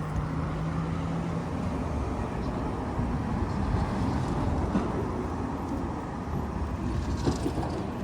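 Steady vehicle rumble, like a running car or passing traffic, with a brief steady hum in the first second and a half.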